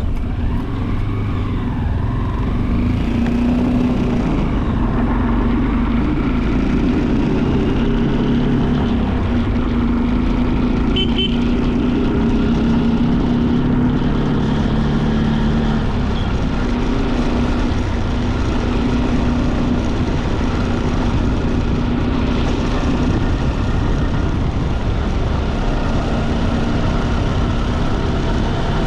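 Vehicle engine running steadily at road speed, with heavy road and wind noise. A short horn toot sounds about eleven seconds in.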